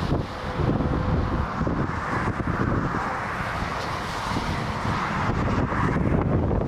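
Strong gusty wind rumbling on the microphone, over the rushing noise of a jet airliner on a windy landing, which swells about a second and a half in and eases near the end.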